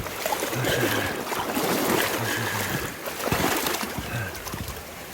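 Water of a swollen river rushing steadily, with small splashes and knocks.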